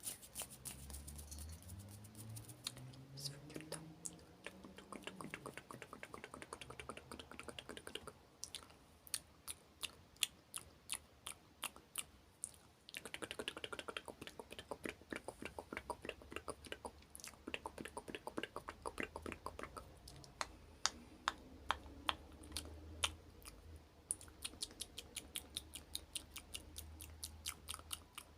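Close-miked ASMR mouth sounds: fast runs of small wet clicks and smacks, many a second, broken by short pauses.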